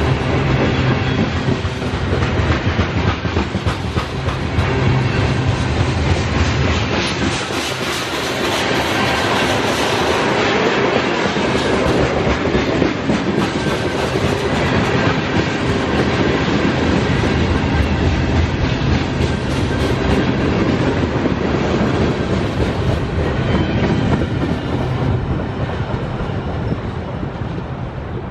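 Freight train cars, covered hoppers then tank cars, rolling past close by: a steady rumble of steel wheels on rail with repeated clicking over the rail joints. The sound thins and fades near the end as the last car moves away.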